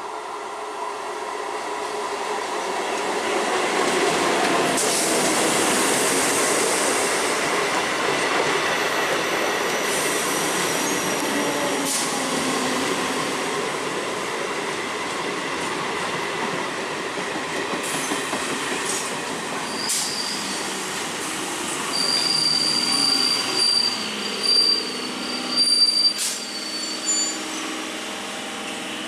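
12-coach electric multiple unit (EMU) train pulling in, its coaches rolling past with a steady wheel-on-rail rumble that swells over the first few seconds. From about twenty seconds in, high-pitched squeals come and go as it brakes towards a stop.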